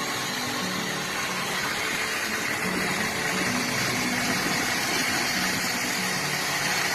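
Car engine idling steadily under a constant hiss.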